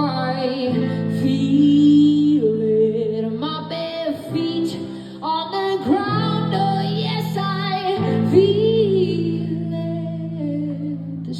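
Music: a woman's voice singing a wordless, wavering melody over guitar and held low chords.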